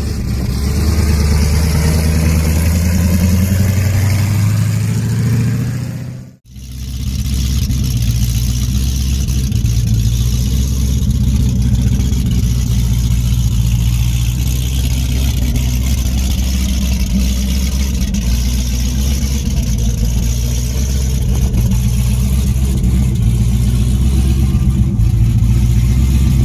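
Dodge Challenger SRT Hellcat's supercharged 6.2-litre HEMI V8 running: first as the car rolls along slowly, its pitch rising a little, then after a brief break about six seconds in, running steadily with a deep, even note.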